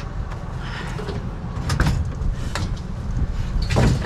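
Handling noise as a salvaged item is pushed and wedged into a truck: several short knocks, then a louder scraping shuffle near the end, over a steady low rumble.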